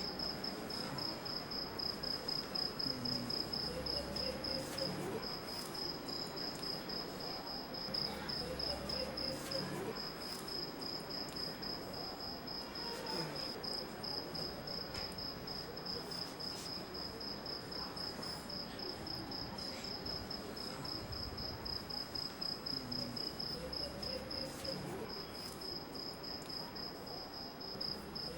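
Cricket chirping in a steady, rapid trill of high pulses, with a faint background hum and murmur of ambient noise beneath.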